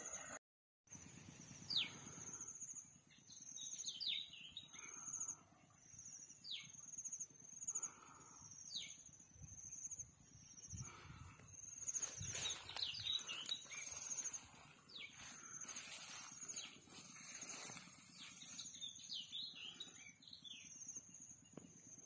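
Birds calling in the open countryside: several short falling whistles and scattered bursts of chirps, over a steady, pulsing high-pitched trill.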